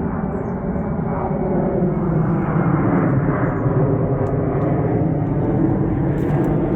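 Steady low rumble of distant engine noise that swells louder over the first few seconds, with a faint sliding tone in it.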